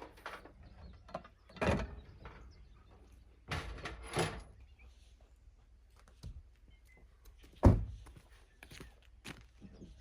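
A few separate thuds and clunks, the loudest about three quarters of the way through, over a faint low hum.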